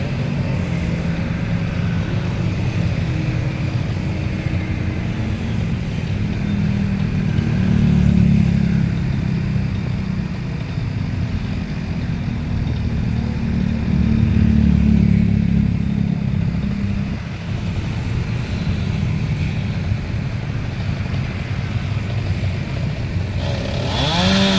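Two-stroke chainsaw running steadily, its engine rising twice to full revs for a few seconds each.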